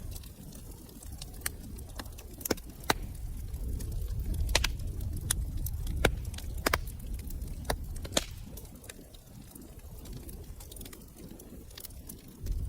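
Wood fire burning in a fireplace: irregular sharp crackles and pops, most of them in the first eight seconds, over a low steady rumble of flames.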